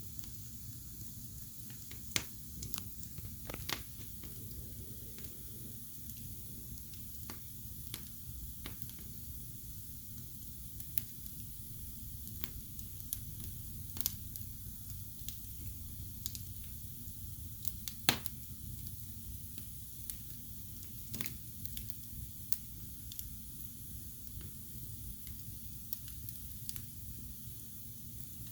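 Wood fire burning in a fireplace: a steady low rumble and hiss with irregular crackles and sharp pops, the loudest pops about two seconds in and about eighteen seconds in.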